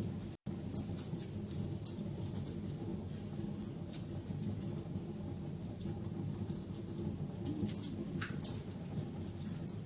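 Wood fire burning with a steady low rumble of flames and irregular sharp crackles and pops. The sound cuts out for a split second about half a second in.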